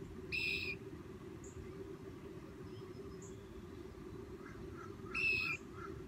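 A bird gives two short, even-pitched calls, each about half a second long, one near the start and one about five seconds later. Faint quick chirps come in near the end, over a steady low background hum.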